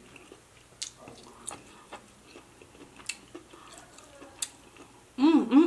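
Close-up eating sounds from a person chewing king crab meat: soft chewing with a few sharp mouth clicks and smacks. A brief voiced hum comes near the end.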